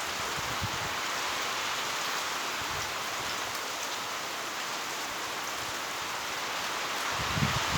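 Heavy rain falling steadily, a dense even hiss, with a few low thuds, the loudest near the end.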